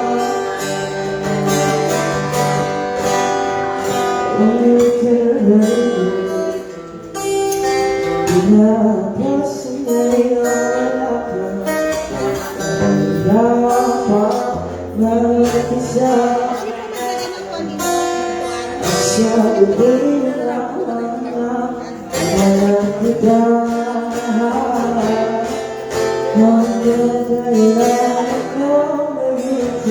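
Acoustic guitar playing a song, with a voice singing the melody over it.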